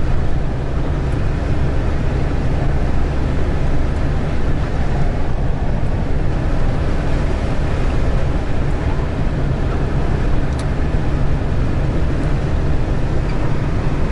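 GAZelle Next van's engine labouring uphill, heard inside the cab as a steady low drone under road and wind noise, with the van struggling for grip on snow.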